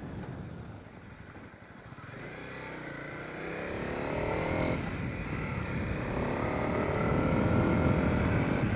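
Honda CB300R's single-cylinder engine accelerating: the pitch climbs, drops briefly near five seconds as it shifts up a gear, then climbs again, getting louder.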